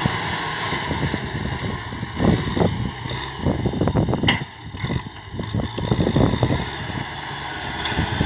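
A tractor engine running steadily, with a string of sharp, irregular knocks and bangs between about two and seven seconds in.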